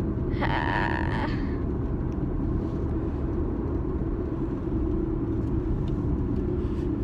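Car interior road noise from a moving car: a steady low rumble of engine and tyres on the road. A brief higher tone sounds for under a second near the start.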